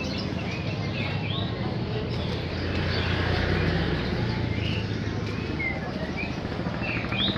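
Many caged songbirds chirping, short scattered chirps from several birds at once, over a steady low background rumble.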